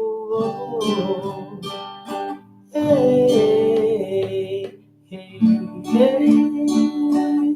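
Acoustic guitar strummed in a guarânia rhythm (down, up, down, up, down) with a wordless sung 'oh' held over the chords. The strumming drops out briefly twice, about two and a half and five seconds in, before starting again.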